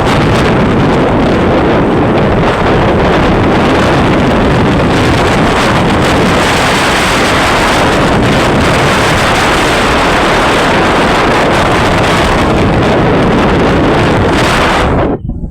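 Loud, steady rushing noise of wind buffeting the microphone, cutting off abruptly near the end.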